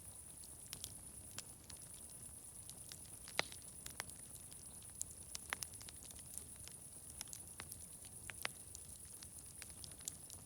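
Wood fire crackling: irregular sharp pops and snaps, the loudest about three and a half seconds in, over a steady high hiss.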